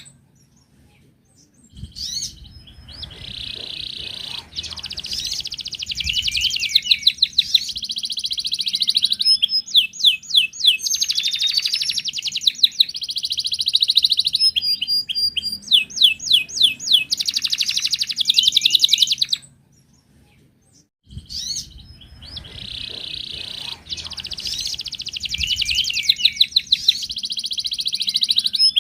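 Wild canary singing long phrases of fast trills and rapid repeated notes, with a few clear whistled tones. The song breaks off twice for a second or two, once at the very start and once about two-thirds of the way in.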